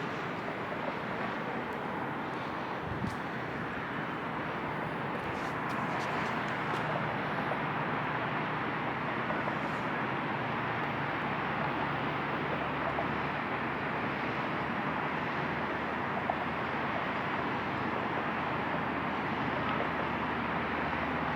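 A steady, even rushing noise with a faint low hum and a few small clicks, with no speech.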